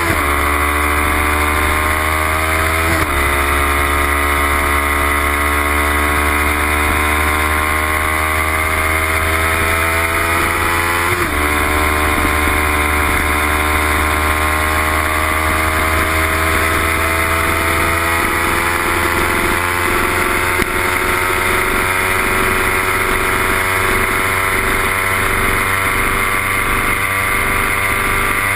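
Kawasaki Ninja 300's parallel-twin engine heard from onboard the bike, its pitch falling slowly as revs drop. There are two quick gear-change breaks, about three seconds in and again about eleven seconds in, over a steady rushing noise.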